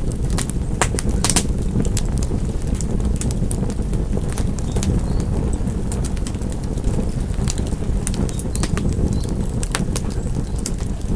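Wood fire crackling in a fireplace: a steady low rumble of burning with irregular sharp pops and snaps scattered throughout.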